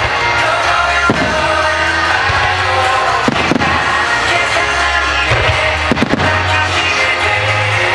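Fireworks bursting over music, with sharp bangs about a second in, about three seconds in and near six seconds. The music keeps up a steady, heavy bass throughout.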